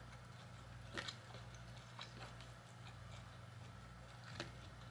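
Quiet chewing with a few faint mouth clicks about one, two and four seconds in, over a low steady hum.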